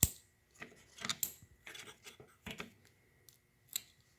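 Small metal clicks and clinks of hand tools and parts at a lawn mower carburetor as its float-bowl nut is worked off. One sharp click at the start is the loudest, followed by a few lighter scattered clinks and scrapes.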